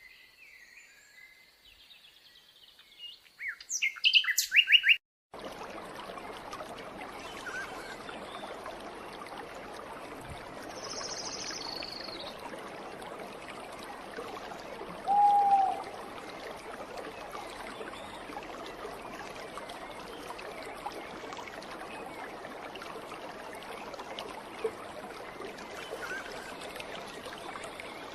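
Small birds chirping, with a quick run of loud chirps about four seconds in; then a steady hiss of background noise with a few scattered single bird calls.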